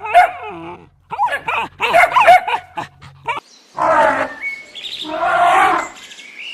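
A run of short, pitched honking calls, typical of geese, for the first three seconds or so. Then, after a cut, two loud, harsh calls from a larger animal, each about a second long.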